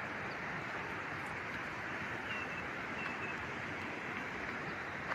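Steady rushing of falling water from a waterfall, an even noise that does not change.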